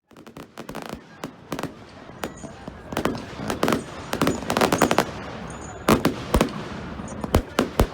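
Fireworks going off: an irregular rapid string of sharp bangs and crackles, densest in the middle, with a few loud single reports near the end.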